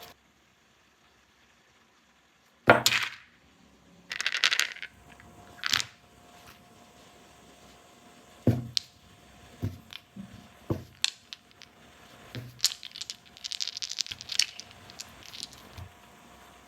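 After a brief silence, hands handle a toy playset and its packaging: a loose series of sharp clicks and taps of small hard pieces, with a few short crinkly rustles.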